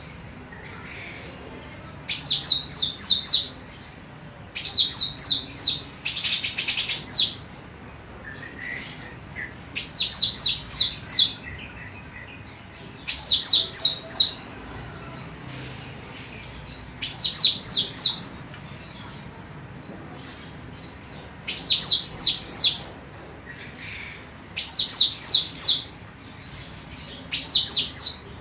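Female cucak rante emas singing in short repeated phrases of four or five quick, falling high whistled notes, each phrase about a second long and coming every three seconds or so. A brief rustling hiss sounds around six seconds in, and faint lower chirps come between the phrases.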